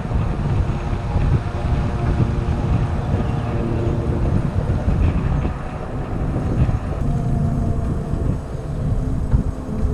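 Wind rushing over the microphone while riding an e-bike along a trail, a steady rumbling noise with faint level tones underneath.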